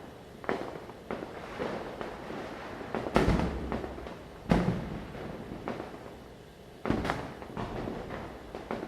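Diwali firecrackers bursting: a series of sharp bangs at irregular intervals, the loudest about three seconds, four and a half seconds and seven seconds in, each with an echoing tail, over a steady background of more distant crackling pops.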